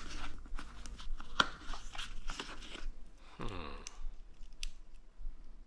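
Clicks and rustles of hands handling a plastic airbrush case and lifting the metal airbrush out of its tray. A short sound falling in pitch comes about three and a half seconds in.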